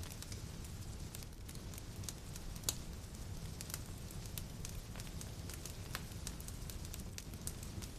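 Wood fire in a fireplace crackling, with irregular sharp pops, one louder pop a little under three seconds in, over a steady low rumble.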